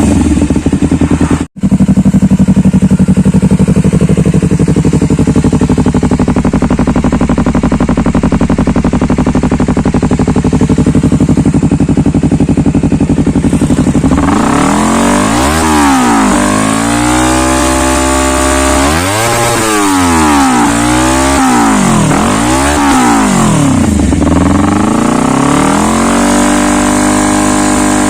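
Honda CBR250RR parallel-twin through a Triton GT-5 stainless full-system aftermarket exhaust, idling steadily. About halfway through it is blipped about five times, the revs rising and falling each time, then it settles back to idle. The sound cuts out for an instant near the start.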